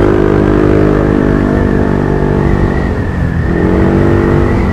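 Yamaha NMAX 155 scooter's single-cylinder engine running on the move. Its note fades about three seconds in and then picks up again, over a steady low rumble of wind on the microphone.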